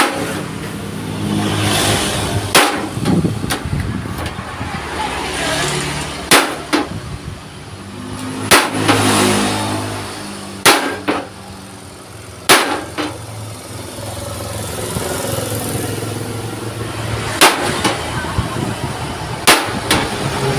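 Hammer blows on a steel plate being shaped: about ten sharp separate strikes at irregular intervals, over a steady low mechanical hum.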